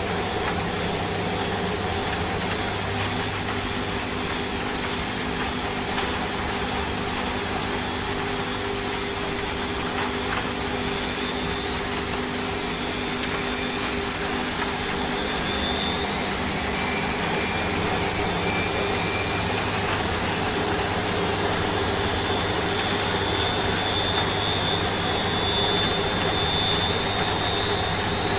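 Washing machine running. From about halfway its motor whine climbs steadily in pitch and then holds high as the drum speeds up into the spin cycle, over a steady hiss of rain and a low machine hum.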